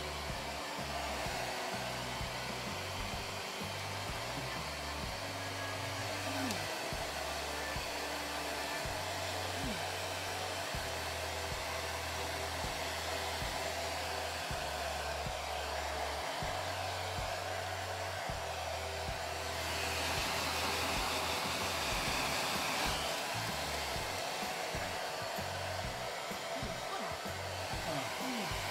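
Hand-held hair dryer blowing steadily while a wet kitten's fur is dried after a shampoo. It gets louder for a few seconds about two-thirds of the way through.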